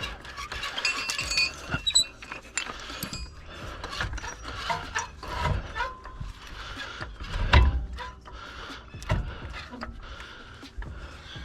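Irregular metal clanks, clicks and rattles from work on a car's rear suspension with hand tools and a floor jack, with a heavier knock about two thirds of the way through.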